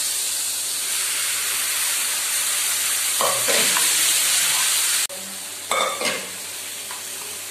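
Cooked payar (dal) sizzling in hot coconut-oil tempering in a frying pan while a spoon stirs it through. The sizzle drops sharply about five seconds in.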